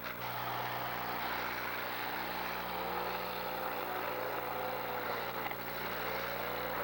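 Demolition derby cars' engines running together in a dense steady din, with engines revving up and down through the middle.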